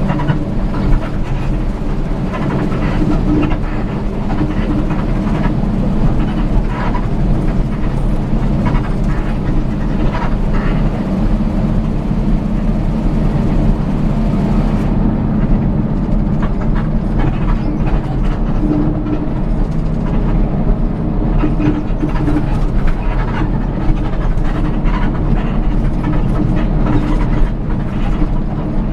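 A vehicle running steadily with a constant low engine and road hum and scattered light clicks and rattles.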